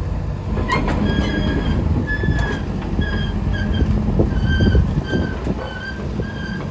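Sany SY135C excavator running: a steady diesel rumble with a high squealing tone that keeps breaking off and starting again, and a few sharp clanks.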